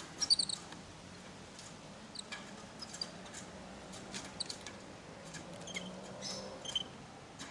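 Scattered short, high chirps and faint clicks from small animals feeding, the loudest cluster just after the start, over a faint steady low hum.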